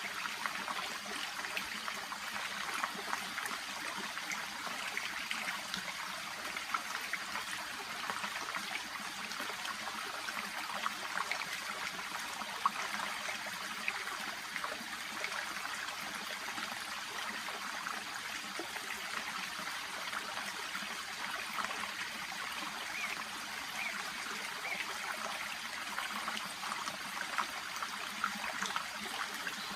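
Shallow brook babbling steadily, a continuous rush of water full of small trickling splashes.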